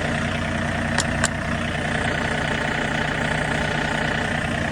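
John Deere tractor engine idling steadily, with two sharp metallic clicks about a second in.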